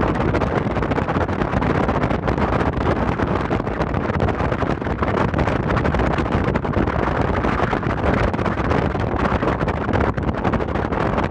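Steady rushing noise of the Sakurajima car ferry under way, with its low rumble and wind buffeting the microphone.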